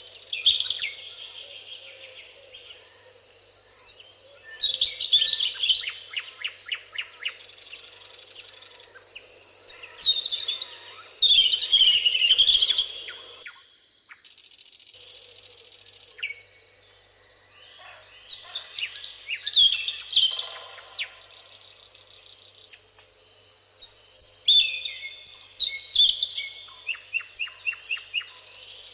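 Songbirds singing in a meadow: rapid, trilling phrases a few seconds long come roughly every five seconds, with short high buzzes in between and a steady faint high tone underneath. The background cuts out for about a second near the middle.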